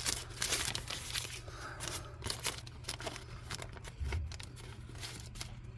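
Paper crinkling and rustling as an old receipt is unfolded and handled, with scattered small clicks.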